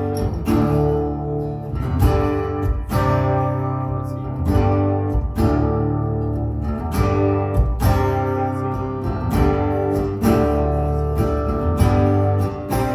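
Acoustic guitar strumming chords in a steady rhythm, an instrumental passage of a live song with no singing.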